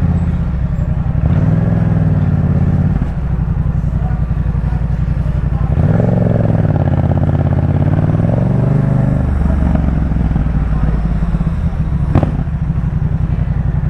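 Yamaha MT-07's 689 cc parallel-twin engine running through a Jeskap K4 full exhaust system under riding. Its pitch rises and falls with the throttle, twice, and there is one short sharp knock near the end.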